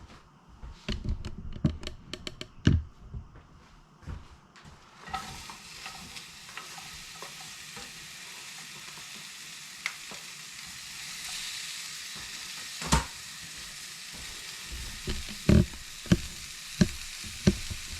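Sliced squash sizzling in hot oil in a cast-iron skillet. A few clicks and knocks come first; about five seconds in a steady sizzle starts suddenly and keeps going, with sharp knocks of a utensil against the pan near the end.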